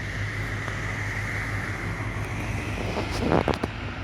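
Wind buffeting the microphone over a steady low hum, with a few sharp knocks a little past three seconds in.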